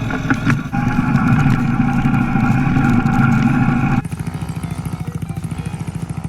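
Small children's dirt bike engine running at steady high revs. About four seconds in it changes abruptly to a lower, evenly pulsing putter.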